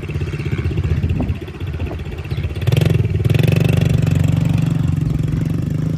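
Yamaha TT-R110 dirt bike's small single-cylinder four-stroke engine running, revving up louder about two and a half seconds in as the bike sets off.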